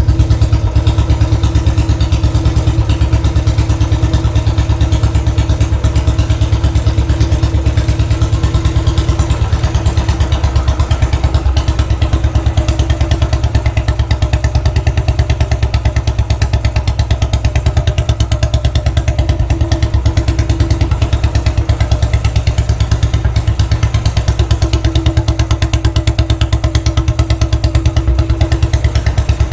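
Royal Enfield Classic 500's single-cylinder engine running steadily through its exhaust, with an even, rapid thumping beat and no revving.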